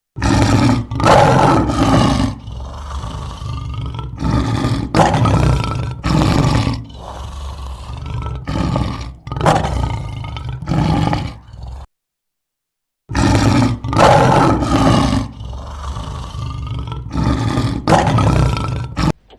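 A lion roaring: a bout of loud roars, the first one long and those after it shorter, each about a second apart. The bout breaks off into a second of silence, then the same run of roars starts again.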